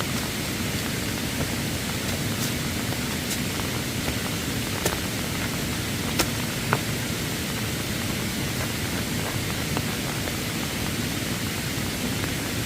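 Steady rushing of a rain-swollen forest stream in flash flood, with a few faint clicks scattered through it.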